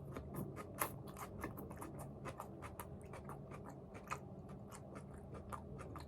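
Faint, irregular crunching and clicking of someone eating a salad, several small crunches a second.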